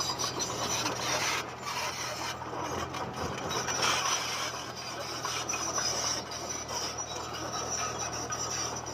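Komatsu D20P bulldozer at work: its engine drones steadily under a continuous grinding, scraping rasp of steel on stone.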